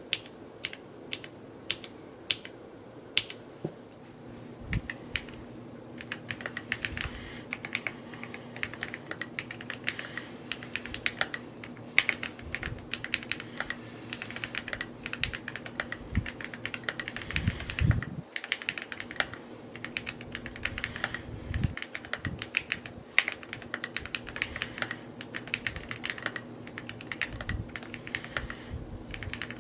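Typing on an Evo80 mechanical keyboard: sharp key clacks, sparse for the first few seconds, then a fast, continuous stream, with a few deeper thuds.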